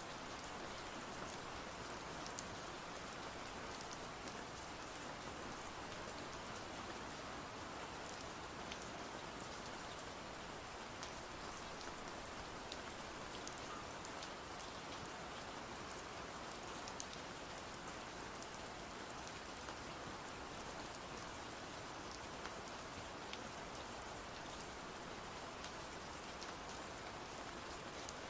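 Steady rain falling, an even hiss with scattered small sharp drop ticks.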